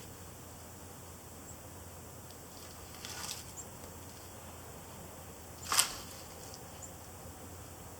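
A short crackle about three seconds in, then a single sharp snap or click just before six seconds, the loudest thing here, over a faint steady hiss.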